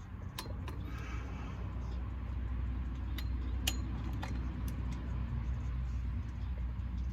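Scattered sharp metallic clicks and clinks of a torque wrench working the flywheel bolts on a Ford Ranger, over a steady low rumble.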